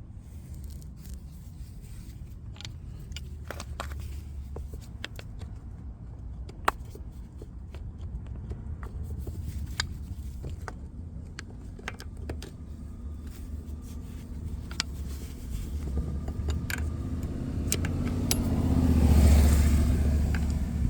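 Scattered small metallic clicks and scrapes of a spanner and loose hardware, as the Sportster's battery cable is worked on, over a steady low rumble. Near the end a passing vehicle swells and fades, the loudest sound.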